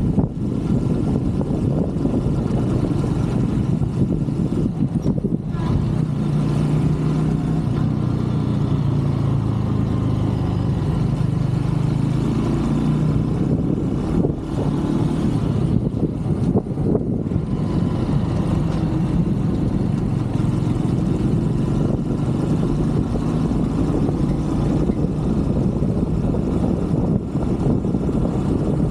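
A 125cc Brixton motorcycle riding along, its single-cylinder engine running steadily, with heavy wind rush over the microphone. The engine note shows most clearly about six to thirteen seconds in.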